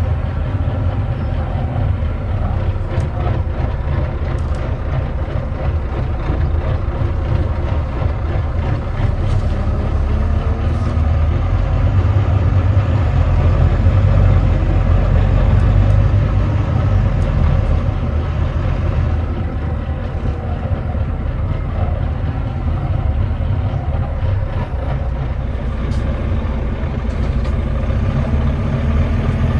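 Volvo D9B 9.3-litre six-cylinder diesel engine of a Volvo B9TL double-decker bus running under way, heard from on board as a steady low drone that grows louder for a few seconds around the middle. The uploader calls this engine misfiring and thrashy.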